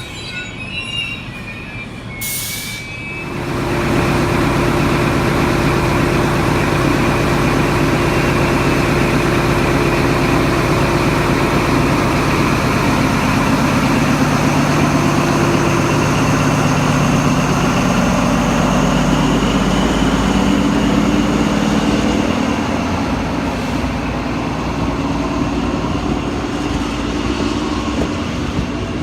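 A train running close by: thin wheel squeal in the first couple of seconds, then from about three seconds in a loud, steady run of wheels and motors with a held high whine, easing slightly near the end.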